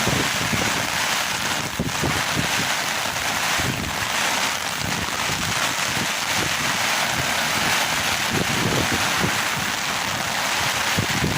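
Heavy rain and wind in a thunderstorm: a steady, loud hiss of rain with gusts buffeting the microphone in low, uneven rumbles.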